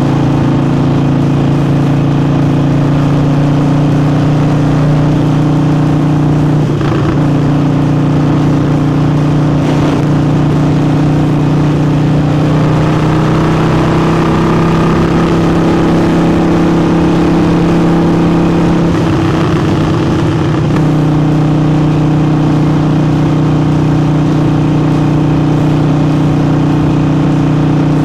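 Harley-Davidson Forty-Eight's air-cooled V-twin, fitted with a new air intake, running steadily while being ridden. Its pitch rises a little about halfway through, holds for several seconds, then drops back.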